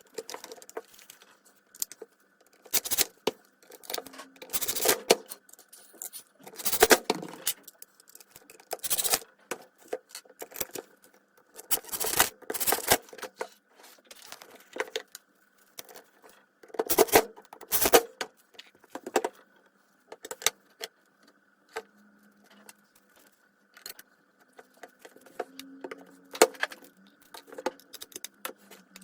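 Metal parts of a circular saw and hand tools being handled during disassembly and cleaning: irregular metallic clinks and clicks with a few short scrapes.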